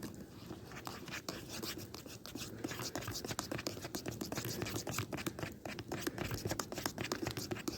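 A spoon stirring a hot mocha drink in a titanium mug: rapid scraping and clicking that gets busier about two seconds in.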